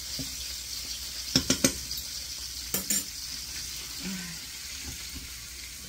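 Breaded chicken gizzards sizzling as they fry in olive oil in a skillet, a steady hiss. A spatula clicks against the pan three times about a second and a half in and twice more near three seconds.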